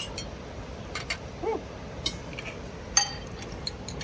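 Dishes and cutlery clinking at a meal table: scattered light clinks, the loudest about three seconds in with a short ring.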